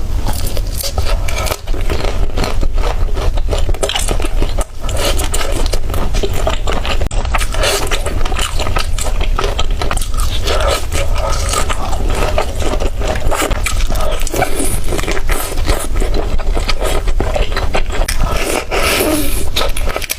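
Continuous close-up scraping and crackling of raw food being worked by hand or utensil, dense with small clicks over a steady low rumble.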